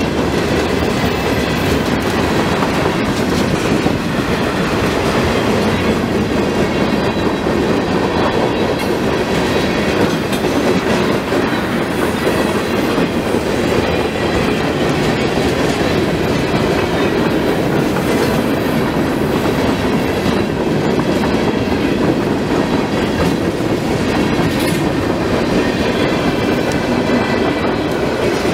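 Loud, steady noise of a long mixed freight train's cars rolling past at close range: steel wheels running on the rails under boxcars, bulkhead flatcars and a tank car.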